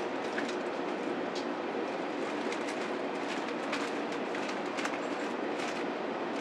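Sanyo Shinkansen train running, heard from inside the passenger cabin: a steady rolling rumble with irregular light clicks.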